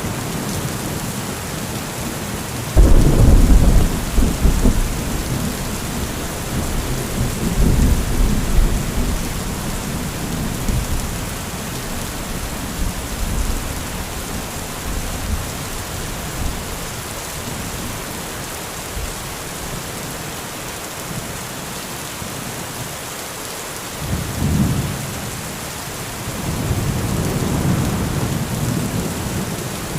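Heavy thunderstorm: steady rain with rolling thunder. A sudden loud thunderclap about three seconds in rumbles on for several seconds, and two more rumbles come near the end.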